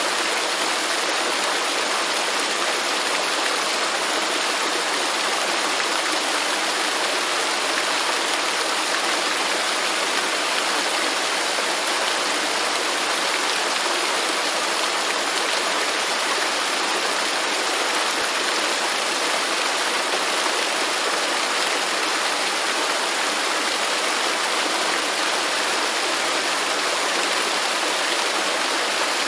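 Waterfall in a rainforest: steady rushing and splashing of falling water, even and unchanging, with little deep rumble.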